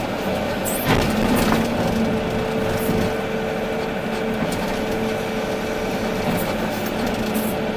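Volvo EC380D excavator's diesel engine and hydraulics running steadily with a constant hum, with a few sharp knocks about one, one and a half and three seconds in.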